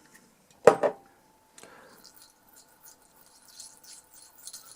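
A short spray from a WD-40 can onto rusty screws in a cup, about a second in, followed by faint high crackling.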